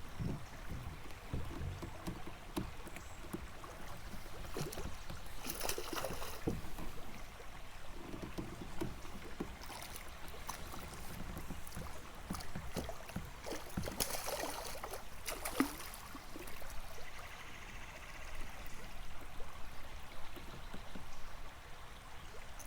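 Intermittent water splashes and knocks against a kayak, over the steady run of a small river. Two louder bursts of splashing come about a third of the way in and again past the middle.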